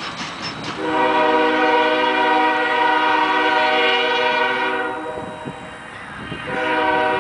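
Air horn of Union Pacific GE Evolution Series locomotive 5288 sounding one long blast of about four seconds, then a second blast starting near the end.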